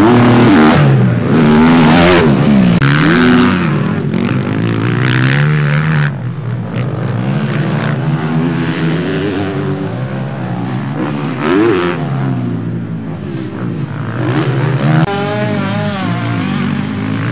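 Several motocross bikes revving hard and shifting as they race past, their engine pitch rising and falling again and again. The loudest part comes in the first six seconds, and the engines are quieter after that.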